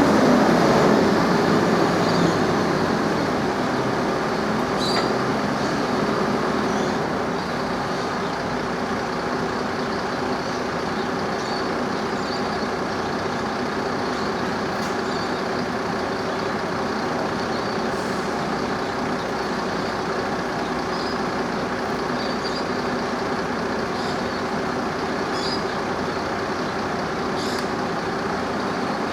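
Heavy diesel engine running, louder at first and easing off over the first several seconds, then a steady hum, with brief faint high squeaks now and then.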